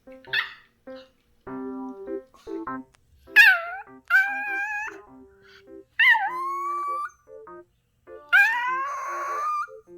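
Small Pomeranian-Spitz mix dog whining and howling in long, pitch-bending cries, four of them in the latter part after a short yelp near the start: a frustrated dog demanding food it is not being given. Background music plays underneath.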